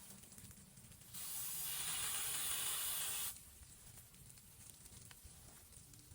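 A steady hiss that starts suddenly about a second in and cuts off about two seconds later, over a faint low rumble.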